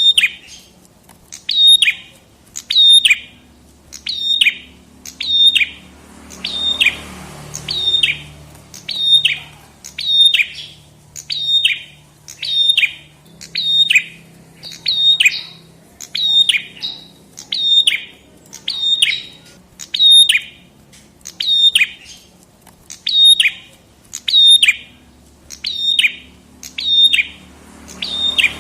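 Prenjak kepala merah (a prinia) calling over and over, about one short call a second, each a quick high note sweeping downward.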